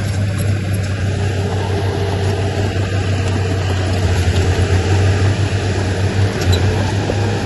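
Heavy diesel engine of earthmoving machinery running steadily under load, a loud low drone with a fluttering beat.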